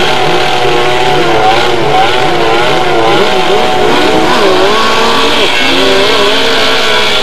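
Several racing sidecar outfits' engines revving hard together as the pack leaves the start and races off, the engine notes rising and falling as the riders work the throttles.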